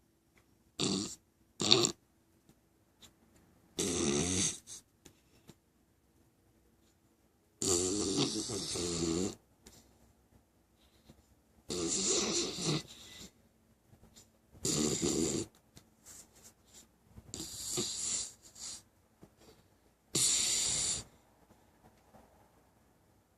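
A six-month-old English Cocker Spaniel puppy snoring in its sleep. There are about eight noisy snoring breaths, coming every few seconds with quiet between them. The first two are short and close together, and the longest comes about eight seconds in.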